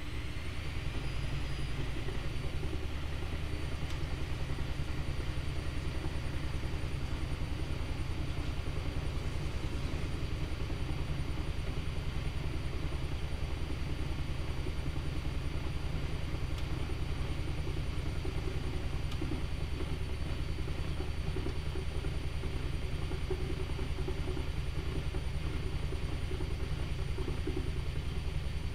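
Privileg Multispar 5110 washing machine spinning: the motor's whine rises in pitch in the first second, then holds steady over a continuous low drum hum with a fast, even pulse.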